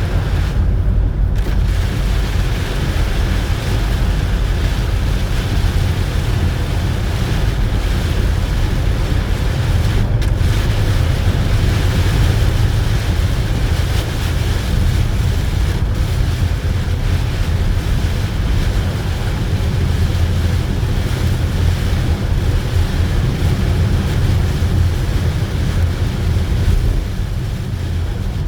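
Steady low rumble and hiss of a car driving on a wet road in the rain, heard from inside the cabin.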